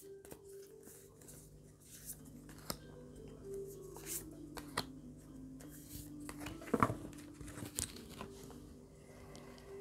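Faint rustling and soft clicks of fortune-telling cards being handled and laid out, a handful of sharper ticks among them, over a low steady hum.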